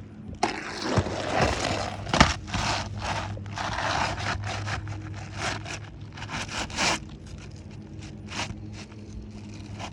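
Replacement GAF Timberline HDZ asphalt shingle being slid and worked into place under the surrounding shingles: gritty scraping strokes of granule-covered shingle on shingle, with a couple of sharp knocks. The scraping stops about seven seconds in, leaving a low steady hum.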